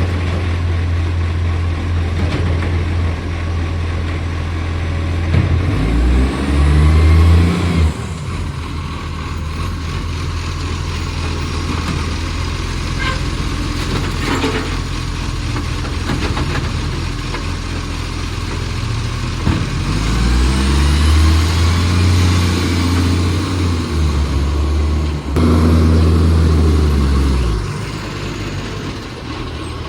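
Garbage truck's diesel engine idling and revving up twice, each time holding the higher revs for a few seconds before dropping back. The truck has a bad exhaust leak.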